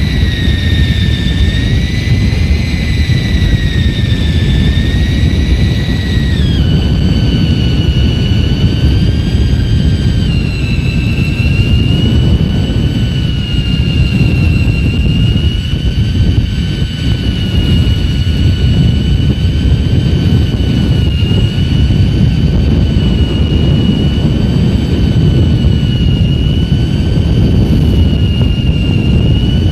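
Steady low rumble of a fishing boat's engine and wind, with a high mechanical whine that steps down in pitch twice, about six and ten seconds in, then holds steady.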